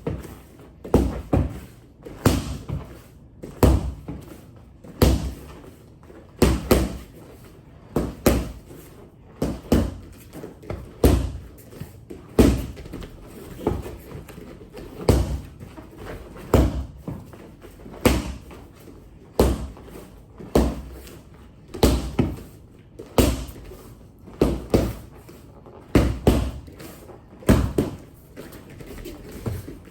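Punches landing on handheld punch mitts: a steady run of sharp smacks, about one every second, often two in quick succession like a jab followed by a straight.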